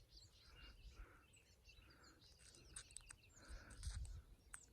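Near silence outdoors: faint birds chirping, with a low rumble swelling about three to four seconds in.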